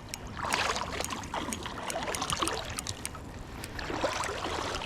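River water sloshing and splashing, with scattered sharp clicks and ticks.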